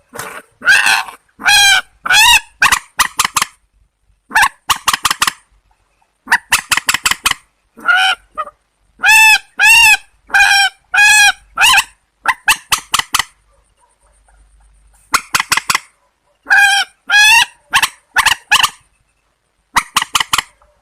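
Calls of a rail-family waterbird: loud, harsh, nasal honking notes given in quick bursts of several notes, with short pauses between the bursts.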